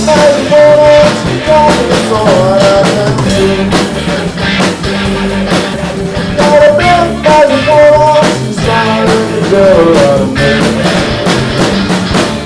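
Live blues-rock band playing loud: electric guitar with bending lead lines over bass and drums.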